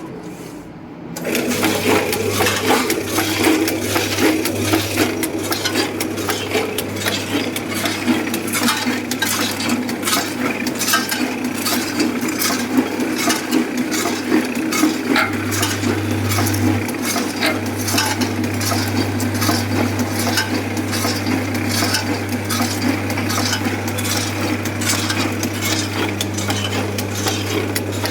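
Automatic snack packaging machine starting up about a second in and running: a steady motor hum under a dense, continuous clatter of small hard pieces.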